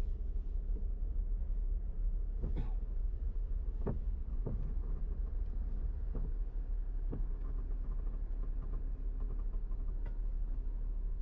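Steady low rumble of a car heard from inside its cabin, with a few short, sharp knocks or squeaks over it.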